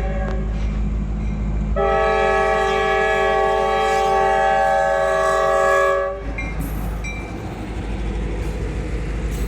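Diesel locomotive horn sounding a chord: a short blast cut off at the start, then one long blast of about four seconds, over the steady rumble of the passing diesel locomotive. The horn is called horrible.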